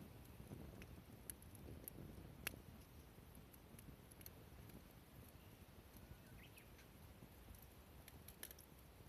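Faint crackling of a small wood fire: scattered sharp pops and ticks, the loudest about two and a half seconds in, over a low steady background.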